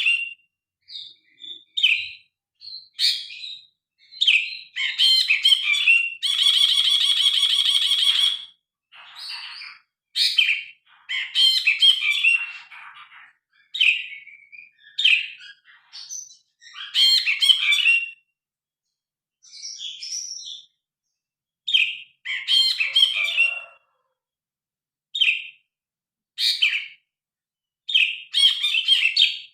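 A brinji kelabu (cinereous bulbul) singing loud, varied phrases of quick chirps and whistles, broken by short pauses, with one long harsh rattling note about six seconds in.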